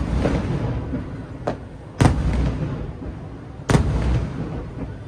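Aerial fireworks bursting: sharp booms at the start, about two seconds in and near four seconds, with a smaller pop at one and a half seconds. Each is followed by a trailing rumble and crackle.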